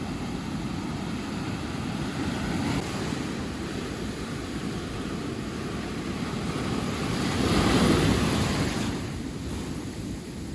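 Sea waves breaking and washing up on a sandy beach, with wind buffeting the microphone. A wave swells up loudest about eight seconds in, then washes out.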